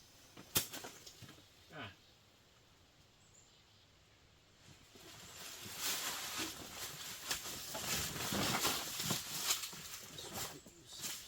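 A click about half a second in, then from about five seconds on an uneven hiss of compressed air as the riding mower's tire is filled at its valve stem.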